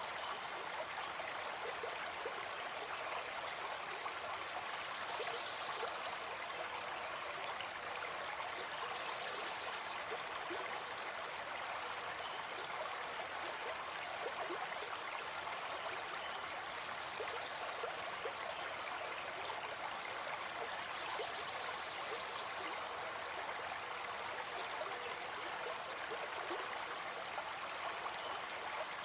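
Gentle river flowing over stones: a steady rush of water with small gurgles and splashes.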